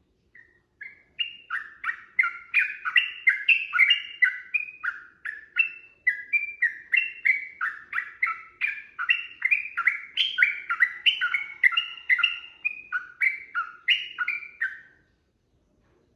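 Trucukan (yellow-vented bulbul) singing one long unbroken run of quick, bubbling notes, about three a second, starting just after the beginning and stopping about a second before the end.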